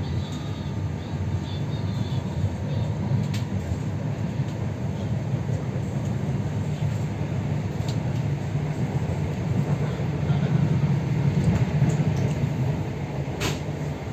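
Steady rumble of a moving passenger train heard from inside the carriage, with a few faint clicks.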